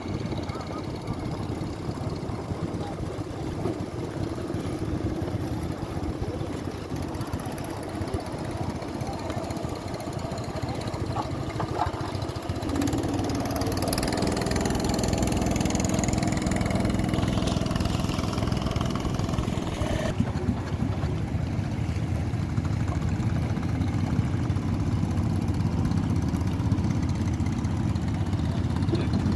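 Motorboat engine running with a dense low rumble, getting louder about halfway through.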